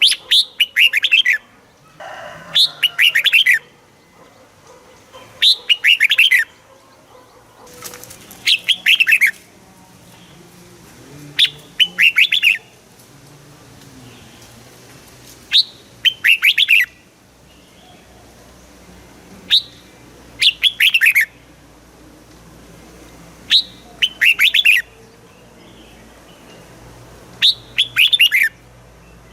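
Red-whiskered bulbul singing: a short, loud phrase of several quick falling notes, repeated about every three to four seconds.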